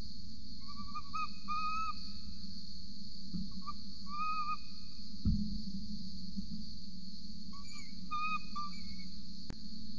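A bird giving short whistled notes in three brief clusters, over a steady high insect chirring. A soft thump about five seconds in.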